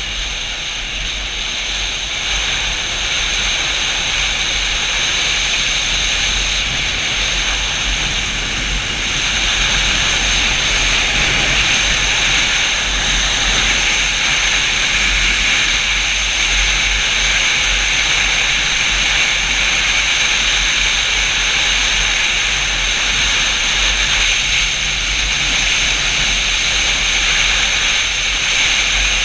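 Wind rushing over the microphone of a Yamaha FZ-07 motorcycle at riding speed, with a low engine rumble underneath. The rush grows louder about ten seconds in and then holds steady.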